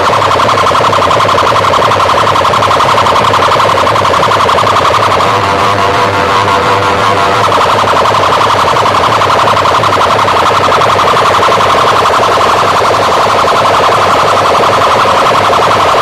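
Very loud, distorted siren-like warbling tone played through a DJ sound-box system, with a pulsing bass underneath.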